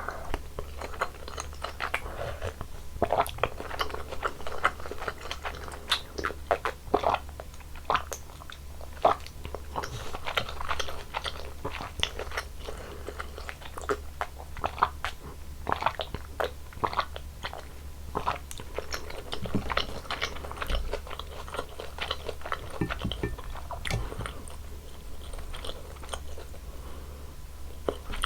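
Close-miked chewing and crunching while eating malatang, the spicy Sichuan hot-pot soup: a quick string of short crunchy bites, thinning out in the last third, over a steady low hum.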